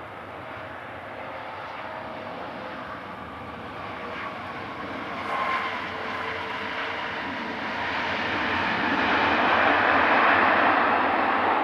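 Jet airliner's engines passing close, a steady roar with a faint whine that grows louder from about halfway through.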